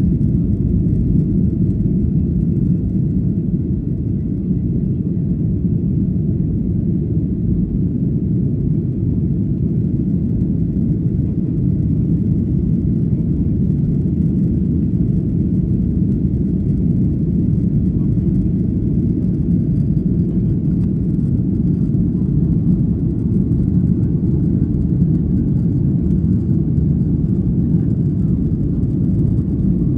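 Airplane cabin noise in flight: a steady low rumble with no change.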